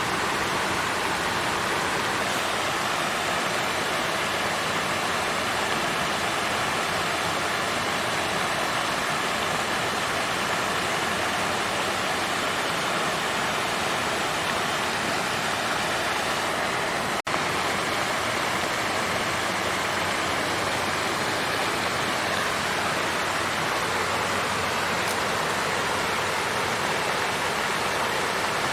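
Water fountain flowing steadily, an even splashing rush of falling water, with a split-second dropout about two-thirds of the way through.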